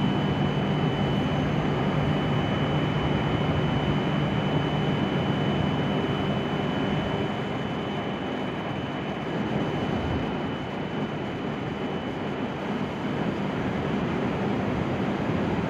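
Hokuriku Shinkansen train at the platform: a steady rushing noise with a low hum that eases off about halfway through, and a thin high whine that fades out near the end.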